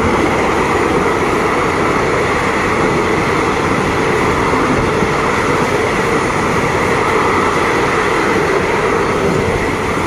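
Passenger train coaches rolling past close by on the adjacent track: a steady rumble and rush of steel wheels on rail, easing off slightly near the end as the last coach goes by.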